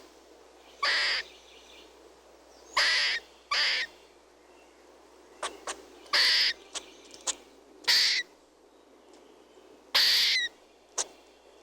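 A bird's harsh, hissing calls, each about half a second long, repeated roughly every one to two seconds, with a few short clicks between them.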